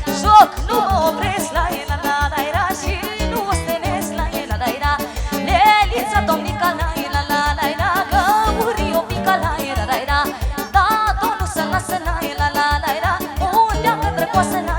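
Live Romanian folk dance music: a fast, steady beat under an ornamented, trilling melody line, played as an instrumental passage.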